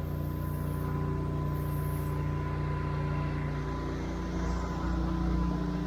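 Pressure washer engine running steadily, with a thin high whine over its hum; the note shifts slightly about four seconds in.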